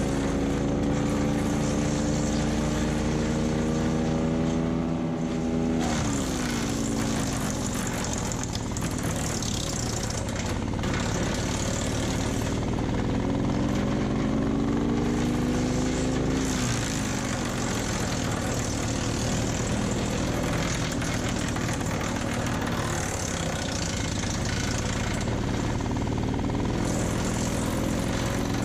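Split-Fire 4090 wood chipper's gas engine running at speed, then winding down sharply about six seconds in as dry deadwood is fed in, with the rough noise of the wood being chipped. The engine pitch climbs back and drops again under load around the middle, then climbs again near the end. The winding down under load comes from its belt-driven centrifugal clutch slipping.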